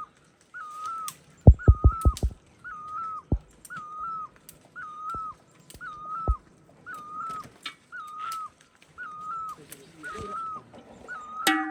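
An animal giving the same short call over and over, about twice a second. There is a quick run of loud knocks about one and a half seconds in and two single knocks later.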